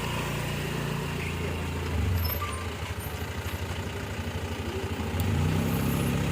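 A loaded brick lorry's diesel engine running. It gets louder about two seconds in, throbs rapidly through the middle, and swells again near the end.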